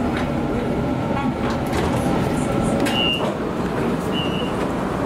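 Running noise inside a Sydney Trains Waratah A-set double-deck carriage as it comes into a station, a steady rumble with two short high-pitched tones about three and four seconds in.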